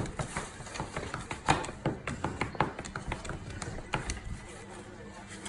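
Rapid, irregular clicking and tapping, several clicks a second.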